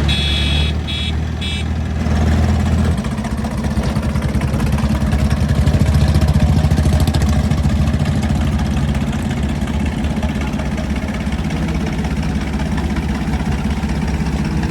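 Tractor diesel engine running hard with a steady pulsing beat, getting louder around the middle, as in a tractor tug-of-war pull. A few short high-pitched tones sound in the first two seconds.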